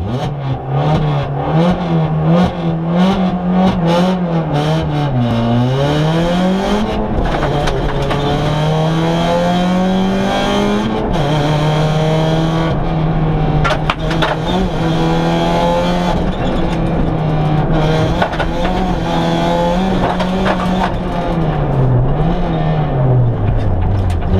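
Citroën C2 rally car's engine heard from inside the cabin at full stage pace, its revs climbing and dropping again and again through gear changes and lifts, with sharp drops about five seconds in, near the middle and near the end.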